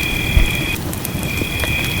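Fireplace crackling with scattered sharp pops, over a steady rumble of rain, with one low thump about a third of a second in. A steady high-pitched two-note whine runs alongside and breaks off briefly near the middle.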